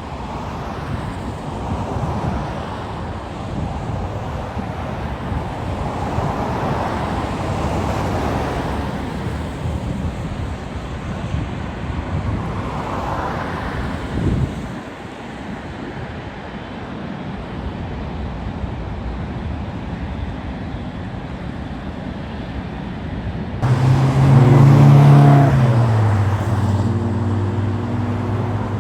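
Road traffic passing in a steady rush with rising and falling swells. About 24 s in a large vehicle's engine starts up close by, louder than the rest, with a low drone that drops a little in pitch and then holds.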